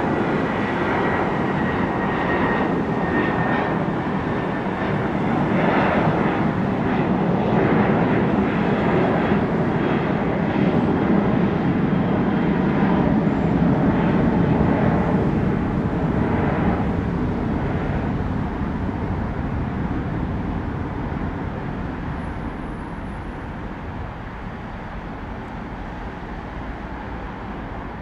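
Departing jet airliner's engine roar, building to a peak about halfway through and then fading away as it climbs out, with a thin high whine in the first few seconds.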